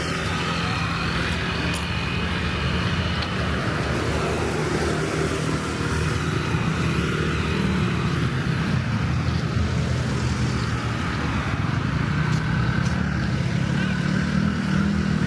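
Street traffic: car and motorbike engines running as vehicles pass along a busy road, a steady hum of engines and tyres that grows a little stronger near the end.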